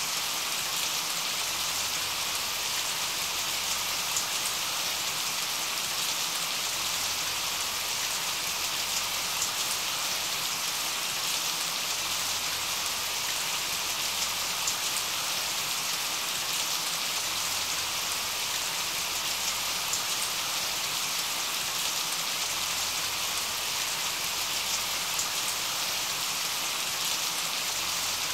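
Steady rain: an even hiss of many drops with small patter ticks, holding at one level without swelling or easing.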